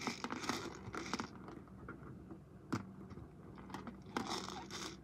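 Faint rustling and scraping handling noises with a few sharp clicks, one louder click a little past the middle, over a steady low hum.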